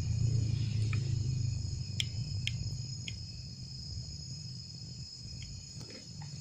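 Insects, most likely crickets, chirring steadily in high, even tones, with a low rumble that fades away over the first few seconds and a few faint ticks.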